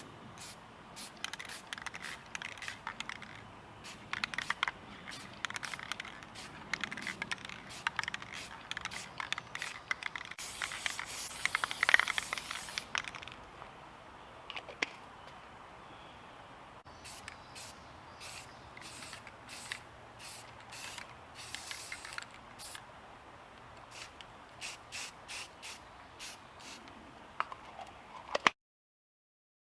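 Aerosol spray paint can spraying onto canvas in many short hissing bursts, with one longer spray of about three seconds near the middle. The sound stops abruptly just before the end.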